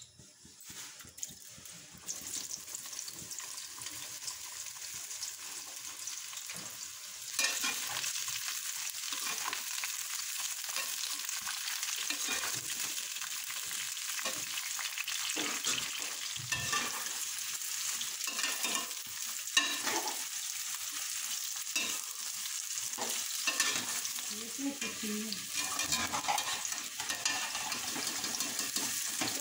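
Sliced bitter gourd frying in hot oil in a steel karahi: a faint hiss that jumps to a steady, dense sizzle about seven seconds in as the slices go into the oil. A spatula stirs through the pieces, with scattered scrapes and knocks against the pan.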